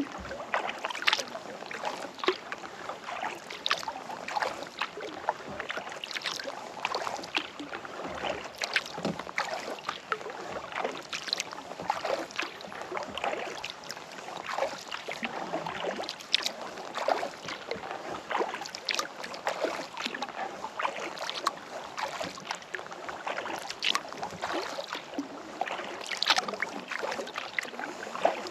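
Kayak paddling: the paddle blades dip and pull through calm lake water, giving many small irregular splashes and drips with no pauses.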